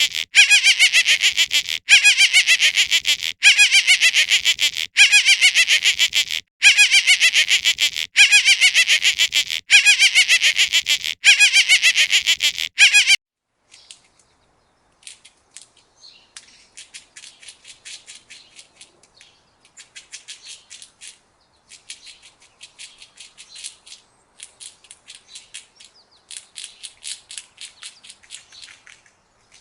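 Rapid, high-pitched chirping in repeated trains of quick falling notes. It is loud for the first thirteen seconds or so and stops abruptly. Fainter bursts of fast chirping follow.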